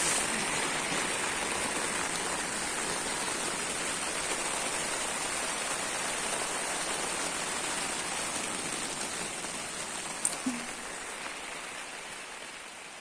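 Steady rain falling, fading out near the end, with a single brief tick about ten seconds in.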